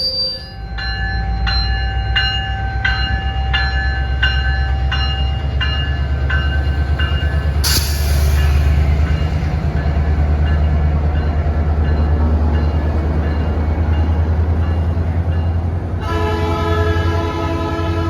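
Diesel passenger locomotive running with a deep engine rumble while its bell rings about every 0.7 s, stopping after about seven seconds. A short burst of air hiss comes about 8 s in, then the locomotive's air horn sounds a steady chord from about 16 s in.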